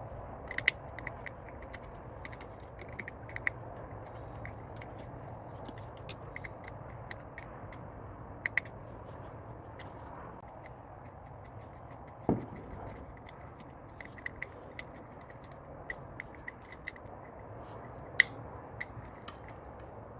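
Small scattered metallic clicks and scrapes of a hand tool working the Torx screw that holds an ignition coil pack on a Mercedes M112 V6, with one duller knock about twelve seconds in, over a steady low hum.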